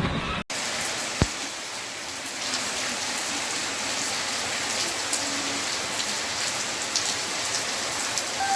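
Steady rain falling, an even hiss with scattered drips and ticks, and one sharp tap about a second in.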